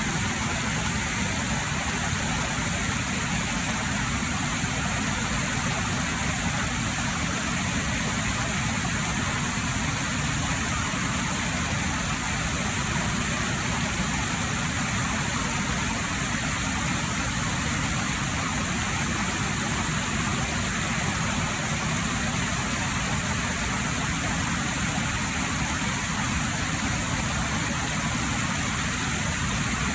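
Waterfall: the steady rush of falling water, unchanging throughout.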